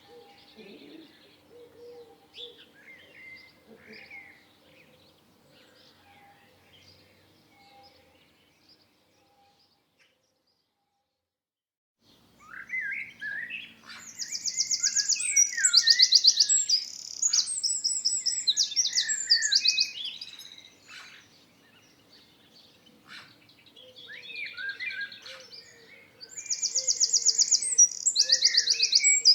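Songbirds singing. Faint calls for the first several seconds give way to a brief hush. Then loud song with fast, high trills starts about twelve seconds in, and a second loud trilled phrase comes near the end.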